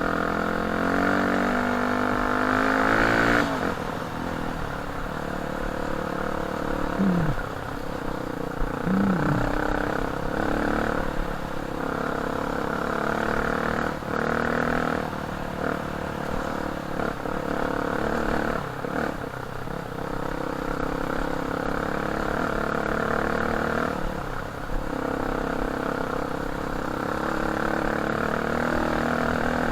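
Dirt bike engine running under way on a trail, climbing in pitch over the first three seconds or so, then dropping and holding a steadier pace, with a few knocks and rattles.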